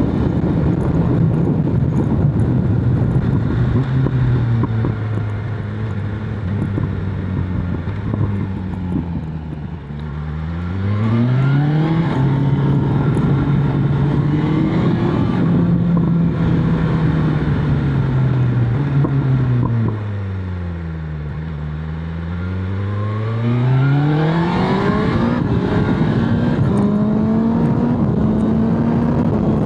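BMW S1000RR's inline-four engine and exhaust, heard from the rider's seat with wind rush. The engine note sinks slowly as the bike slows, then climbs steeply under hard acceleration about ten seconds in. It sinks again and climbs steeply once more about twenty-two seconds in.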